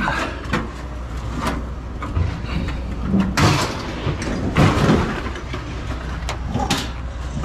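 Scrap metal items clanking and scraping as they are handled and unloaded from a truck, several separate clatters over a steady low rumble.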